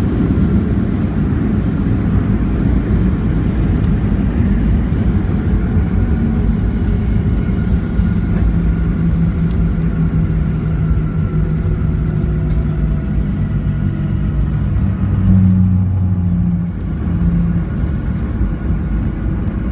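Cabin noise of a Boeing 737-800 rolling out and slowing on a wet runway after landing: a steady low rumble of the CFM56 engines and wheels, with a humming engine tone through the middle that eases near the end.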